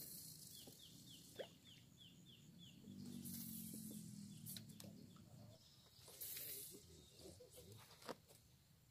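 Near-silent waterside ambience. Early on a distant bird calls a quick run of about nine short, falling chirps, and a few faint clicks follow.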